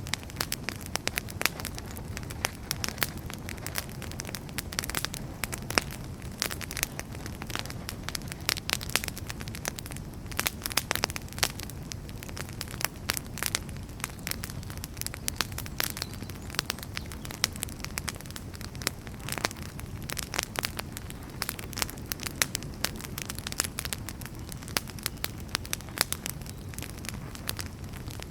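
Firewood burning in a fireplace: irregular sharp crackles and pops over a steady low rush of the flames.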